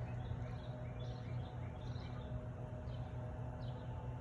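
A small bird chirping faintly in a series of short notes, about three a second, over a steady low background hum.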